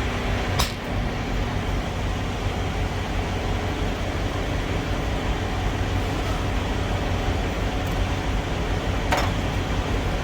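Diesel pump fueling a truck: a steady low hum and rush of fuel flowing through the nozzle, with two sharp clicks, one about half a second in and one near the end.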